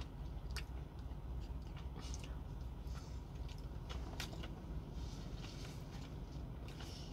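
Close-up mouth sounds of a person chewing soft marinated eggplant, with scattered wet clicks and smacks, over a steady low hum.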